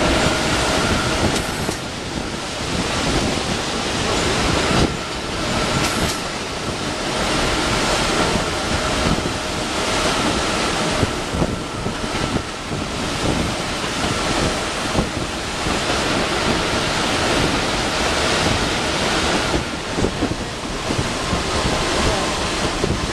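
Steady rushing noise of a passenger train running, heard from inside the carriage beside a fast, swollen river, with a faint high whine through much of it.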